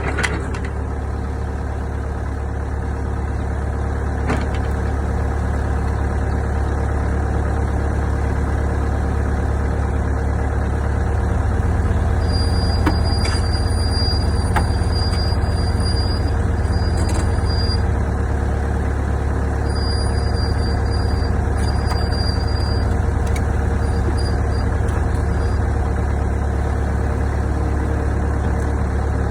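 Hydraulic excavator's diesel engine running steadily, a little louder in the middle, with a faint high whine coming and going.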